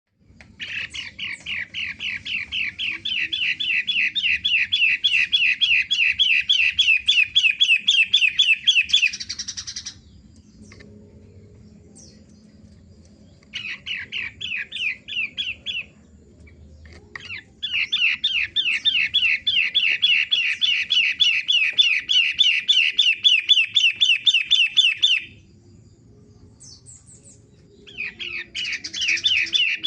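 Long-tailed shrike (pentet) singing loudly in long bouts of fast, evenly repeated chattering notes, about five a second. There are short pauses around ten, sixteen and twenty-six seconds in.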